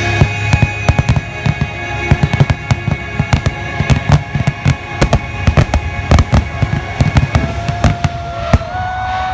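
A rapid barrage of fireworks bursts, several sharp bangs a second, over a held chord from the show's music. The bangs thin out and stop about a second before the end, and whistles begin.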